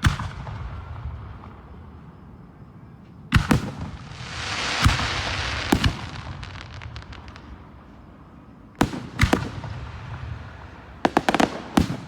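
Aerial fireworks shells bursting with sharp bangs, a few seconds apart. In the middle one burst gives a long fizzing crackle of many small pops. Near the end a rapid cluster of bangs goes off.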